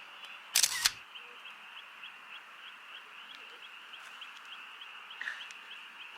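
Steady outdoor chorus of calling animals: a hissing band with a short chirp repeating a little over twice a second. About half a second in, a brief loud noise with two sharp peaks cuts across it.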